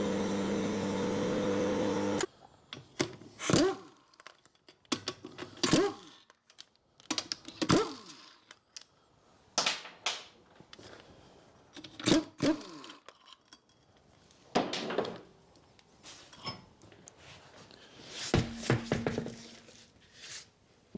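An electric vehicle lift's motor hums steadily as it raises the car, then cuts off about two seconds in. After that comes a series of scattered clunks and metallic knocks as the wheel bolts are undone and the front wheel is lifted off the hub.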